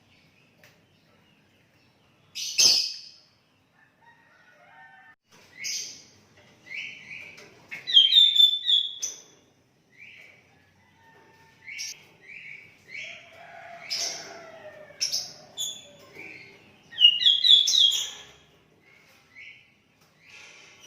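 Sooty-headed bulbul (kutilang) singing: quick bursts of short, chirpy whistled phrases of a few notes each, separated by brief pauses. A sharp knock sounds about two and a half seconds in.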